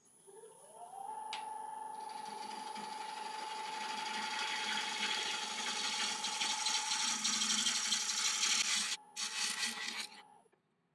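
Wood lathe motor spinning up with a rising whine that then holds steady, while a turning tool cuts across the face of a laburnum bowl blank with a steady rushing scrape. The cutting breaks off briefly about nine seconds in, and the lathe stops shortly before the end.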